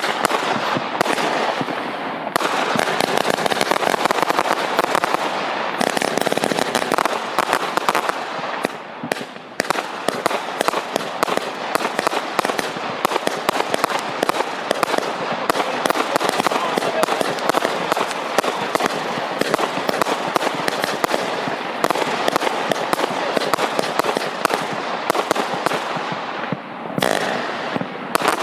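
Firework cakes firing in rapid succession: a dense, continuous crackle of many shots and bursts, thinning briefly about nine seconds in and again near the end.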